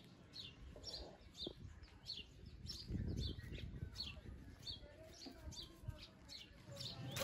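A small bird chirping faintly and repeatedly, short falling chirps about two a second.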